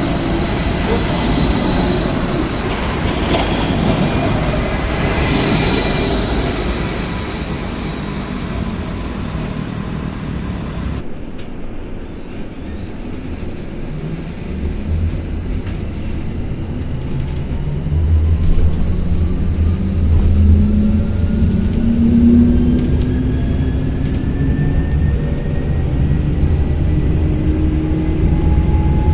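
Tram running on rails: a steady high whine over running noise, then after an abrupt cut about 11 s in, the electric traction motors whine rising in pitch over several seconds as the tram accelerates, over a low rumble.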